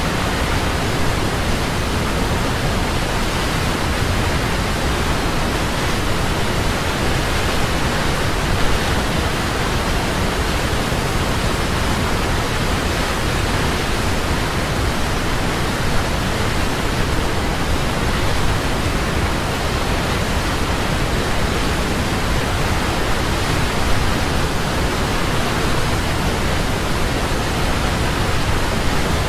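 Large waterfall, a steady, dense rush of falling water with no change.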